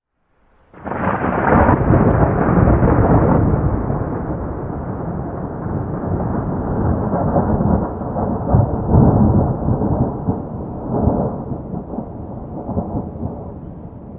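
A thunderclap crashing in suddenly about a second in, then a long rolling rumble of thunder that swells again several times and slowly fades toward the end.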